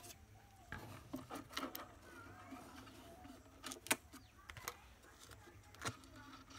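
Scattered light clicks and taps of small parts being handled, the sharpest a little before the middle, with faint bird calls in the background.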